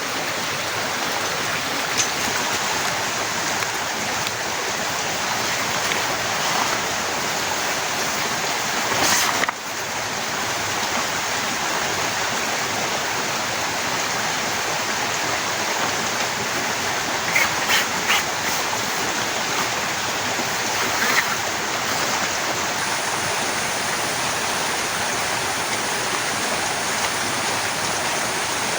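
Heavy rain falling steadily. A few short knocks or taps come through it, a louder one about nine seconds in and a quick cluster a little past halfway.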